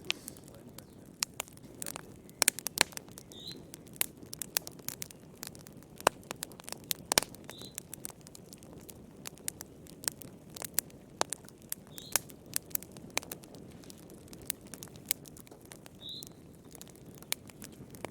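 Wood fire burning in a fireplace: irregular sharp crackles and pops of the burning logs over a low steady rush of the flames.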